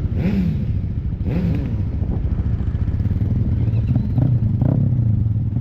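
Motorcycle engines running in a group of riders, a steady low rumble with a couple of short revs in the first second and a half.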